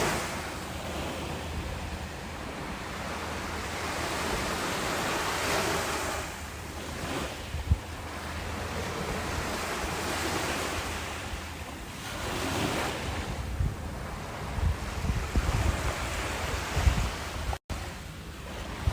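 Ocean waves washing in and drawing back, swelling and fading every few seconds, with wind buffeting the microphone in low rumbling thumps. The sound cuts out completely for an instant near the end.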